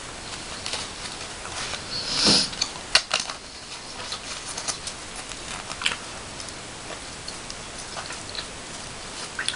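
Close-miked small crinkles and clicks of paper being handled, with a louder paper rustle about two seconds in and a sharp click about a second later.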